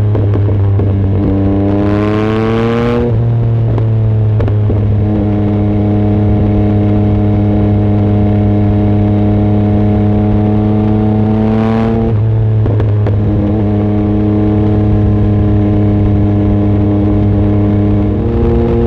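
2024 Yamaha MT-09 SP's three-cylinder engine running through an exhaust with its baffle removed, heard while riding. It pulls up in pitch with gear changes near the start, about three seconds in and about twelve seconds in, and holds a steady pitch at cruise between them.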